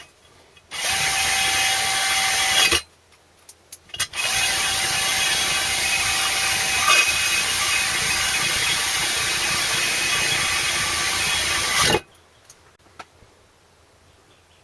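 A power tool runs in two bursts, about two seconds and then about eight seconds, with a steady whine under a harsh hiss, stopping abruptly each time.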